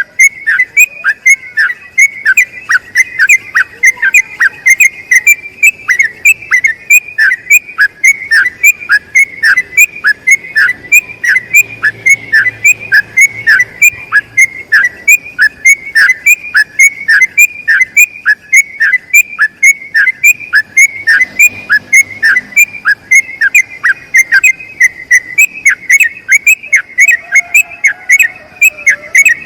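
Yellow-vented bulbul (trucukan) singing a long unbroken run of quick, whistled notes, about two to three a second, each note falling sharply in pitch: the 'ropel panjang' rapid-fire song.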